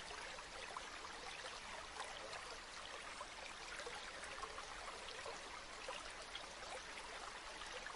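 A river or stream flowing steadily, a soft even rush with fine trickling and splashing detail.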